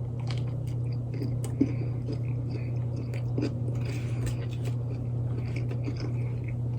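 A person chewing a mouthful of grilled chicken wrap dipped in buttermilk ranch close to the microphone, with irregular small wet clicks and soft crunches. A steady low hum runs underneath.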